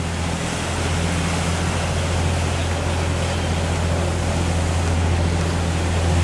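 Steady low drone of a boat's engine, with rushing water and wind noise over it.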